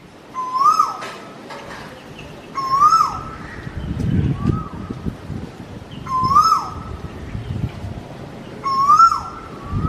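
A bird's loud call repeated about every three seconds: each call rises to a held note and then drops sharply, with softer answering calls between. Low rumbles come and go underneath.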